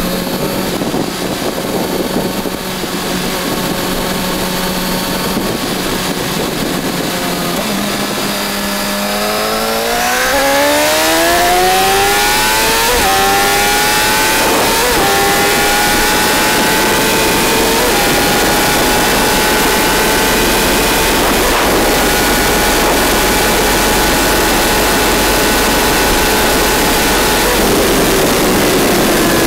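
Motorcycle engine running steadily, then accelerating hard from about eight seconds in, its pitch rising with quick upshifts. It holds a high steady pitch at speed under heavy wind noise and eases off near the end.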